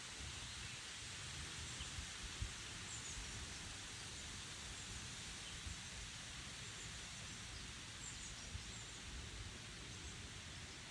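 Wind rustling through tree leaves as a faint steady hiss, with a low rumble of wind underneath. A small bird chirps faintly and briefly about three seconds in and again about eight seconds in.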